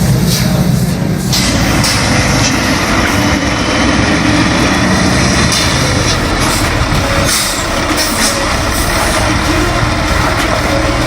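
Heavy logging truck's diesel engine running steadily under load, with a rush of mechanical and road noise over it.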